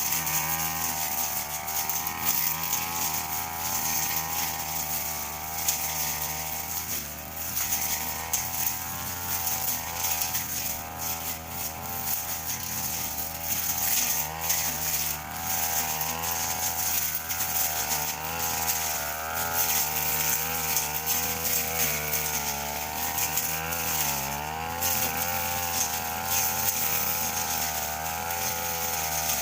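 Brush cutter engine running at high revs while cutting grass, its pitch wavering constantly as the blade meets the grass, with one brief dip in pitch late on.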